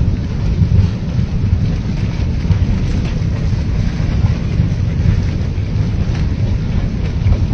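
Huayco, a debris flow of mud and rock, rushing past in a steady low rumble.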